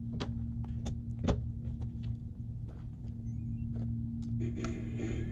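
Bachmann Spectrum three-truck Shay model locomotive running: a steady electric motor and gear-train hum with scattered clicks from the wheels on the track. Near the end a hissing noise joins in.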